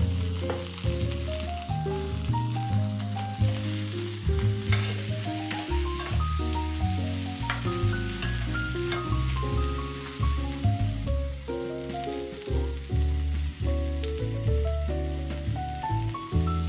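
Rice balls and fried tofu pouches sizzling in a frying pan, with a few sharp clicks of tongs against the pan as they are turned. Over it plays background music with a stepping melody and a steady bass line, the loudest sound.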